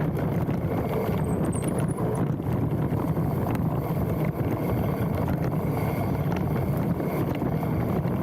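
Mountain bike descending a dirt trail: a steady rumble of tyres and rattling bike parts, mixed with wind buffeting the handlebar-mounted microphone. About a second in comes a brief faint high-pitched squeal of the disc brakes as the rider brakes.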